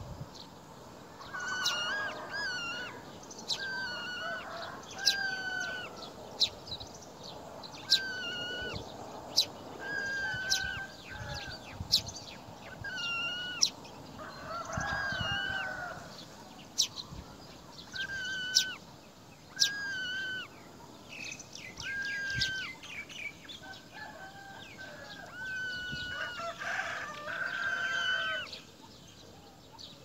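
Bird calls: short, clear notes, each dipping slightly in pitch, repeated every second or two, with sharp clicks scattered between them.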